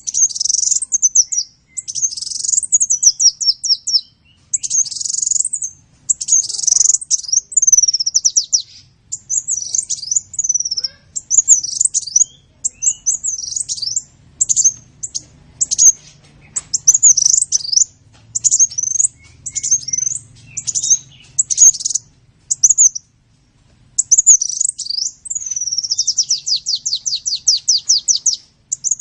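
Sunbird song, the 'kolibri' of Indonesian bird-keeping: short phrases of rapid, high-pitched chirps and twitters follow one another with brief pauses. Near the end comes a longer, fast trill.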